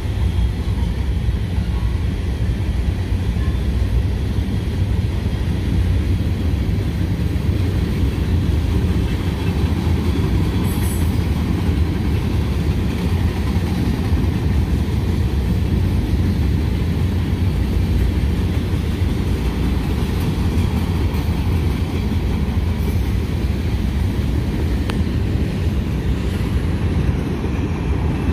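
A long train rolling past on the tracks: a steady, loud low rumble of wheels on rail, with a few faint clicks now and then.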